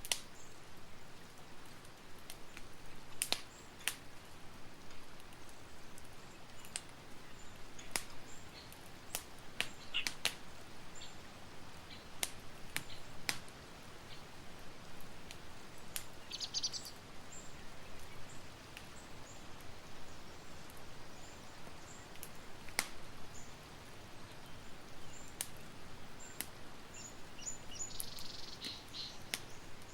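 Campfire crackling, with irregular sharp pops over a steady hiss. A few high bird chirps come in, one short flurry about halfway through and another near the end.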